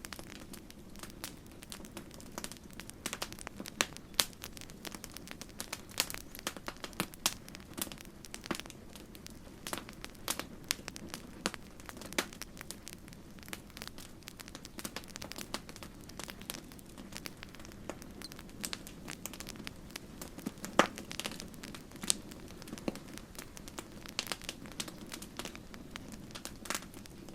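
Campfire crackling: irregular sharp pops and snaps from burning wood over a steady low hiss of the flames, with one louder pop about three-quarters of the way through.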